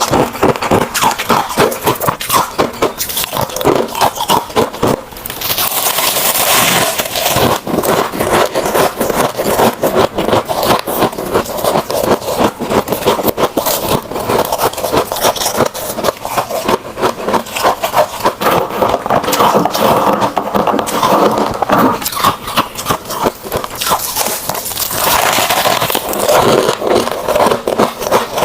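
Freezer frost being crunched and chewed close to the microphone: a dense, unbroken run of crackling crunches. Twice, about five seconds in and again near the end, a brighter scraping hiss rises over it.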